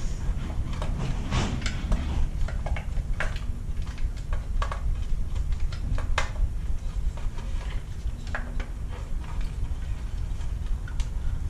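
Scattered clicks and light knocks of hands handling parts and wiring on an electric dirt bike while searching for a connector, over a steady low rumble.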